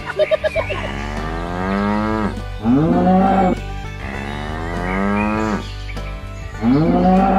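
Cattle mooing: four long calls in a row, the first and third sliding down in pitch, over a steady low hum.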